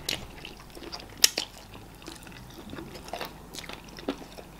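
Close-up mouth sounds of people eating garri fufu (eba) with okra soup and meat by hand: chewing with a few short sharp clicks, the loudest about a second in.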